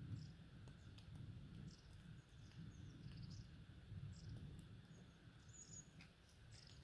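Near silence: faint outdoor ambience of a trail-camera recording, with a low steady rumble and scattered faint high chirps.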